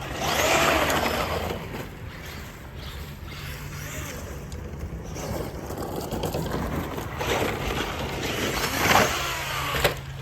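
Electric motor of a Traxxas RC truck whining as it speeds up and slows down in spurts, loudest about a second in and again near nine seconds.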